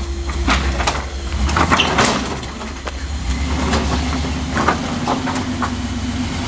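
Off-road vehicle's engine running with a steady low rumble while crawling over rock, with scattered short knocks and scrapes.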